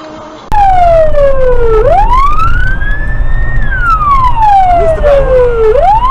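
Police car siren wailing, starting suddenly about half a second in. Its pitch sweeps slowly down, up and down again over a steady loud rumble of the car driving.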